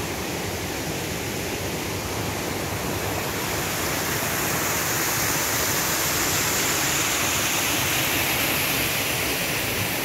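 Small waterfall pouring over rock into a pool: a steady rush of falling water that grows a little louder about four seconds in.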